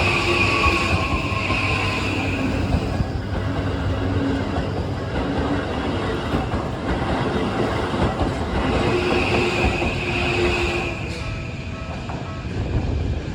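An electric commuter train passing over a level crossing, its wheels clattering over the rail joints, with a high wheel squeal twice. Near the end, as the train noise eases, the crossing's electronic warning bell comes through with steady ringing tones.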